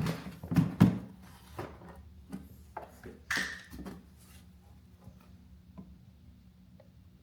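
Clicks, knocks and a short plastic scrape from handling an oil bottle and cap at a small engine's oil filler while it is topped up with 10W-30. After about four seconds it goes nearly quiet, with only a few faint ticks as the oil is poured slowly.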